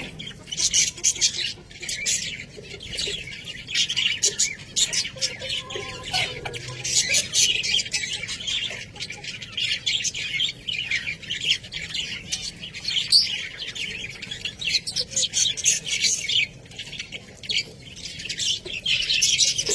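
Budgerigars chattering and chirping continuously, many short rapid calls and squawks overlapping.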